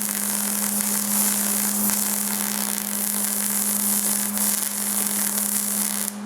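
Electric arc welding on sheet steel: a steady crackling hiss of a weld bead being run along the Blazer's door panel, cutting off just before the end, over a constant low hum.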